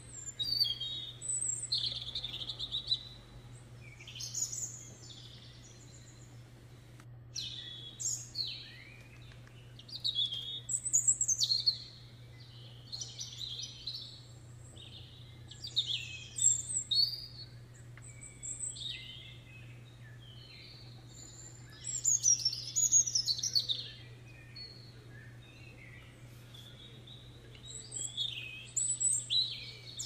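Songbirds chirping and singing in bursts of quick high chirps and trills every few seconds, over a steady low hum.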